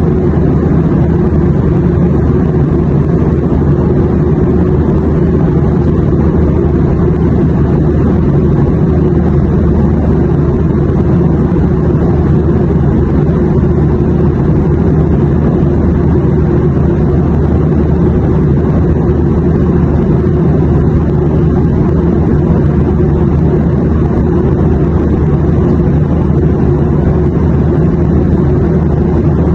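Steady airplane drone used as white noise: a constant low rumble, heaviest in the bass, that never changes in level.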